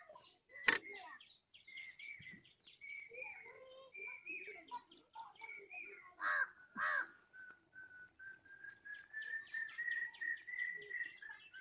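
Birds calling, with many short chirps, two louder calls about six and seven seconds in, and a long slowly rising call near the end. A single sharp knock about a second in is the loudest sound.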